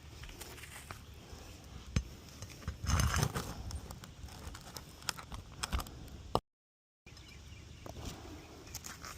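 Scattered knocks, clicks and short scrapes of hands and tools working on asphalt shingles, loudest in a scuffing cluster about three seconds in. The sound cuts out completely for about half a second about two-thirds of the way through.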